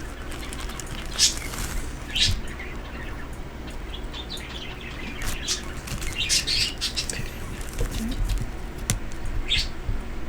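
Pet birds chirping in short, scattered high calls.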